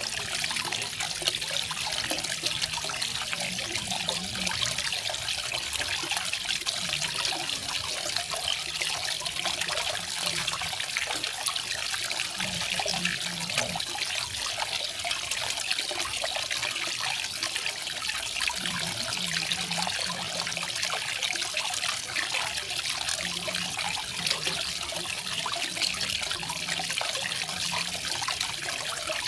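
Garden waterfall: water falling and splashing in a steady, even hiss that does not change.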